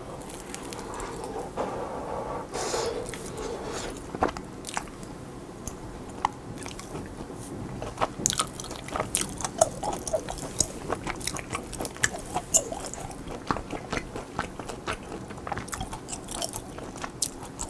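Close-miked eating of a pan-fried mozzarella cheese dumpling: a bite, then chewing with many small wet clicks and light crunches, busier from about halfway.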